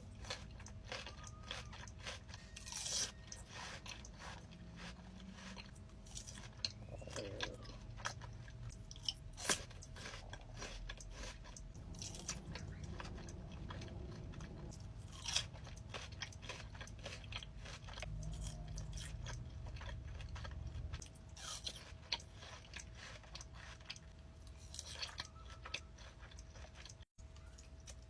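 Close-miked eating: repeated crunchy bites and wet chewing, with sharp clicks and crackles scattered throughout.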